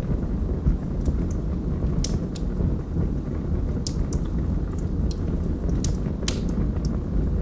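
Wood logs burning in a fireplace: a steady low rumble of the fire with scattered sharp crackles and pops, most of them from about two seconds in.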